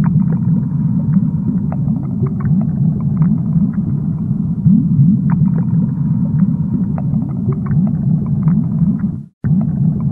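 Aquarium water bubbling: a steady low rumble full of quick rising bubble chirps, with scattered small pops. It drops out for a split second about nine seconds in.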